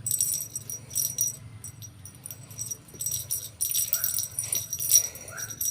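A small jingle bell, such as a cat toy's bell, jingling in repeated shakes. From about four seconds in, short chirp-like calls repeat about three times a second.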